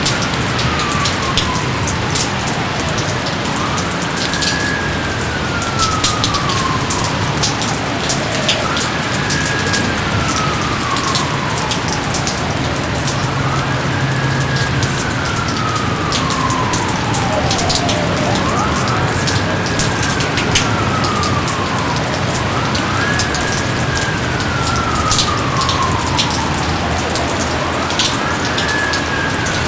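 Steady heavy rain with scattered sharp drips. Through it runs a repeating whistle-like wail that climbs quickly, then slides slowly down in pitch, about once every four seconds.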